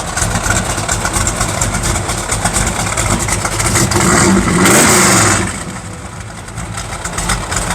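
1967 Ford Mustang Shelby tribute's 408 stroker V8 running through its exhaust, with one rev about four seconds in that rises, holds briefly and falls back to idle.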